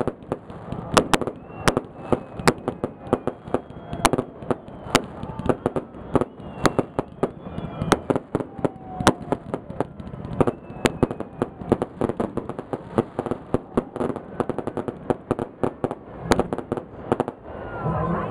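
Fireworks salute: a continuous barrage of sharp bangs and crackles at irregular intervals, with faint whistles of rising shells among them.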